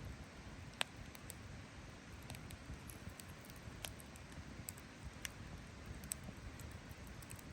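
Wood campfire crackling: sharp, irregular pops and snaps, the loudest a little under a second in, over a steady low rumble.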